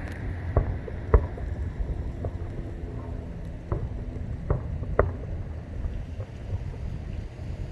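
Aerial fireworks shells bursting at a distance: about a dozen irregular booms and cracks, the loudest about a second in and about five seconds in. Beneath them runs a steady low rumble.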